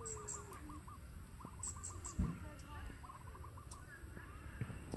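A bird calling in quick runs of short, evenly repeated notes, about eight a second, three times over, with faint high chirps alongside. A single thump comes about two seconds in.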